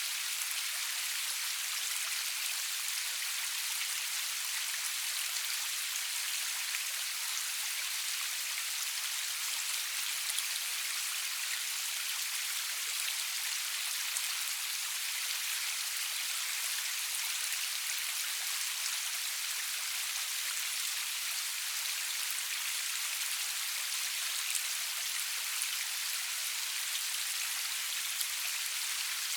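Steady rain falling, an even high hiss with scattered faint drop ticks and no thunder.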